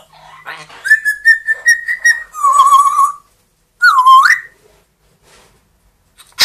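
Pet parrot whistling: a held note with a slight wobble about a second in, then a warbling trill, then a short whistle that swoops down and back up.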